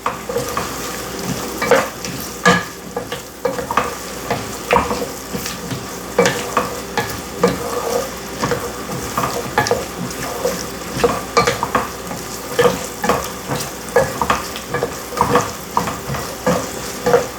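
Diced onion, celery, carrot and red bell pepper sizzling in olive oil over high heat, with a utensil stirring them and scraping and knocking against the pot at irregular moments.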